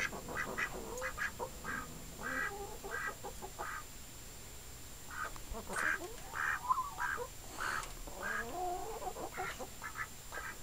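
Domestic ducks quacking over and over in short calls, with chickens clucking among them. The birds are likely expecting to be fed.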